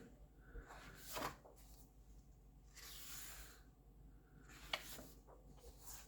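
Soft paper swishes and rubbing as pages of a colouring book are turned and handled, with a short sharp tap a little before five seconds in.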